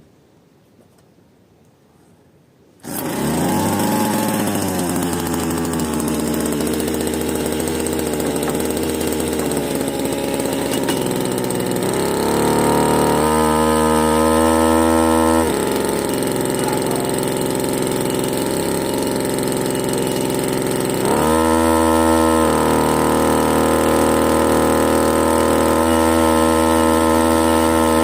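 Bernard Moteurs W14 15 hp engine starting abruptly about three seconds in and running. It speeds up, drops back, and then speeds up again near the end.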